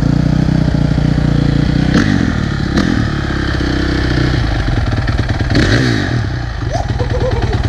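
Honda CRF450R motocross bike's single-cylinder four-stroke engine running at idle. There is a sharp click about two seconds in, and the engine note rises and falls briefly a couple of times, like short throttle blips.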